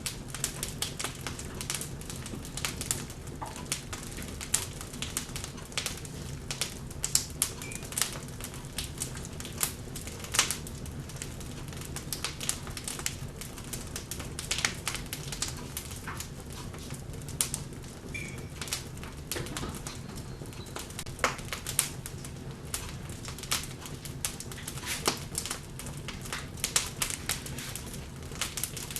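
Wood logs burning in a fireplace: steady crackling with irregular sharp pops over a low rumble of the flames. Two brief faint high squeaks come through, about eight and eighteen seconds in.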